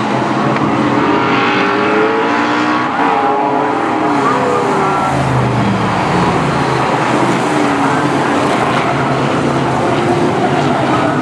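BriSCA F1 stock cars' V8 engines racing round the oval as a pack, a continuous loud noise with revs rising and falling as cars lap and pass.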